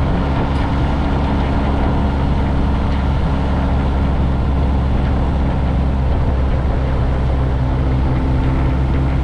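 Motorcycle engine running at a steady speed while riding, its even hum mixed with steady wind and road noise.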